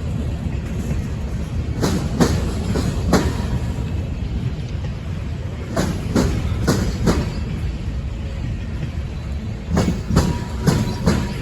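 Railroad cars rolling past with a steady low rumble, their wheels clacking over rail joints in pairs every few seconds.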